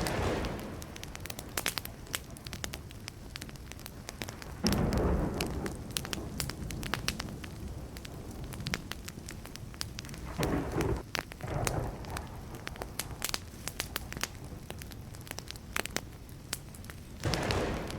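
Burning wood fire crackling and popping with many sharp small snaps. Brief low rumbles of thunder come through about five seconds in, twice around ten to twelve seconds, and again near the end.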